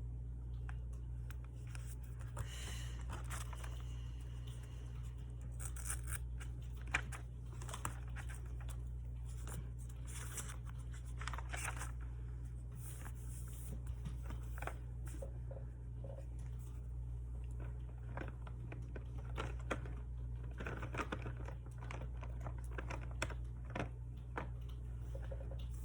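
Paper and tape being handled: scattered rustling, scraping, tearing and small taps, over a steady low hum.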